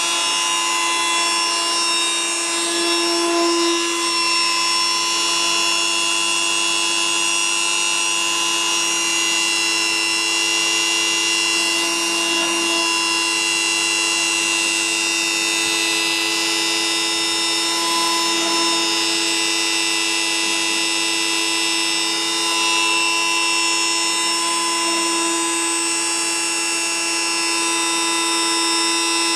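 CNC machine running: a steady motor whine of several pitches at once, with a few slight swells and pitch shifts as it works.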